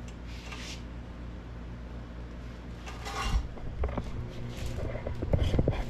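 Vacuum cleaner being run to clear cut-out metal debris from inside a steel sandblaster tank: it comes up in level about three seconds in, with scattered metallic clinks and knocks of scraps and the hose against the tank.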